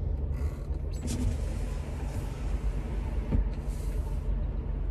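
A car's engine running with a steady low rumble, heard from inside the cabin.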